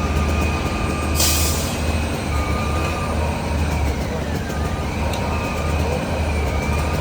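Fire apparatus diesel engine idling with a steady throbbing low rumble. A short, loud hiss of air about a second in, like an air brake releasing. Faint wavering high tones sit above the rumble.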